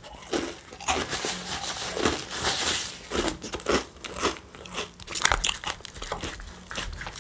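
A person eating close to the microphone: irregular bites and chewing, with some crunchy bites.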